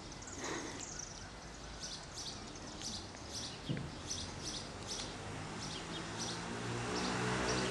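Small birds chirping repeatedly over steady outdoor background noise, with a low steady hum building over the last couple of seconds.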